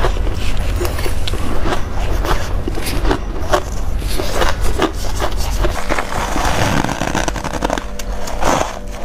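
Close-miked bites into crunchy freezer frost: a run of irregular, crisp crunches, a couple a second, with a denser stretch of crunching about two-thirds of the way through, over a low steady hum.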